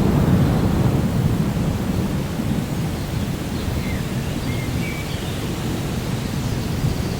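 Rainforest ambience: a steady low rumble of rain and distant thunder that eases slightly over the first few seconds, with a few short bird chirps about four to five seconds in.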